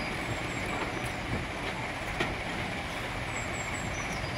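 Diesel-hauled passenger train moving slowly along a station platform, heard from the coach window: a steady rumble of the train in motion with a few light clicks.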